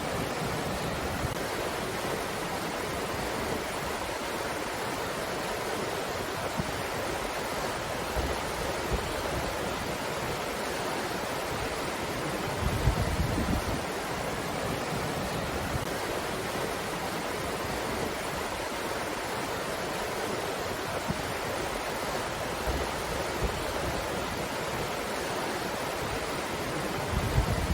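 Steady breeze blowing, an even rushing noise, with low buffeting on the microphone in gusts about halfway through and near the end.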